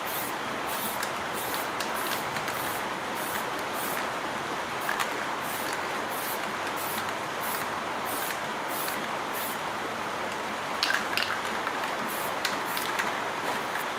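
High-pressure spray hissing steadily, its upper hiss swelling about twice a second as the jet is swept back and forth, with a few sharp clicks about eleven seconds in.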